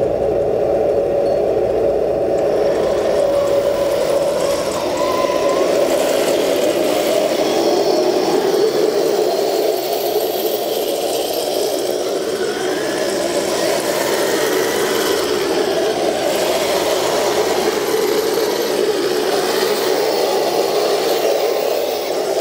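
RC model Leopard tank running steadily on its new drive motor and transmission.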